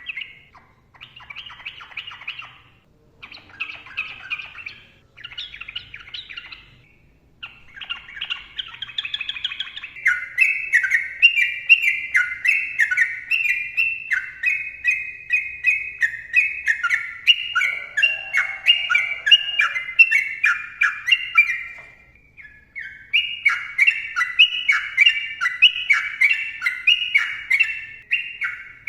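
Yellow-vented bulbul (trucukan) singing: short chattery phrases with pauses at first, then from about ten seconds in a long, fast run of rapid notes, broken by a brief pause before a second run near the end.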